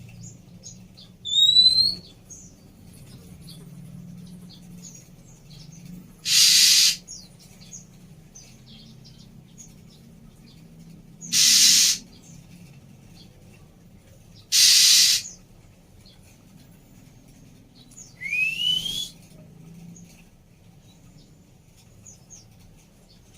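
Female Oriental magpie-robin calling: a rising whistle near the start, three harsh hissing rasps spaced a few seconds apart through the middle, and a rising whistled note with a rasp near the end, with faint short chirps between.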